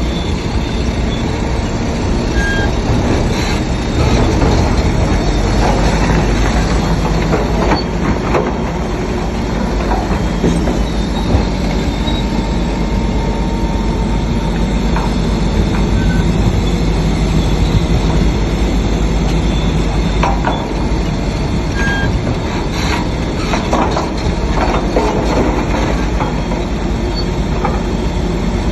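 Shantui DH7C3 crawler bulldozer working: its diesel engine runs loud and steady while the steel tracks clank and give short squeals.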